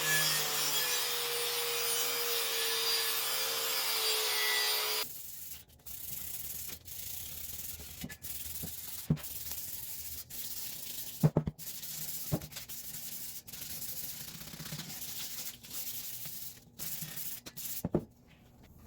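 Sanding on a bike part: a loud, steady rasping hiss for about five seconds, then quieter, broken rubbing strokes with scattered clicks and a few light knocks.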